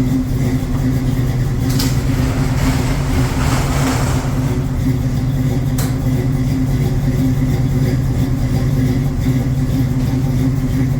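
Truck's 350 Rocket V8 idling steadily and loud, a low even rumble, with a brief rush of hissing noise about two to four seconds in.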